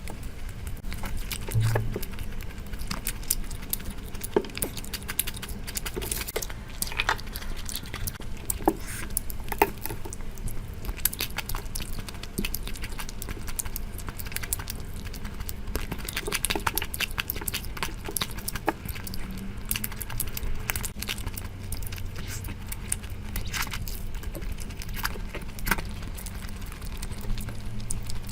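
Close-miked eating sounds from a curry mukbang: many small, irregular wet clicks and smacks of chewing and mouthfuls, with no speech.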